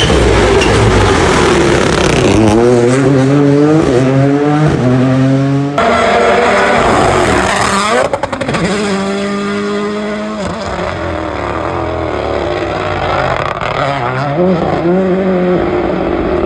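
Rally cars' turbocharged engines at full throttle, revs climbing and dropping in steps through quick gearshifts as the cars pass. A sudden change about six seconds in brings another car, with a short burst of sharp crackles around eight seconds as it comes off the throttle before accelerating hard again.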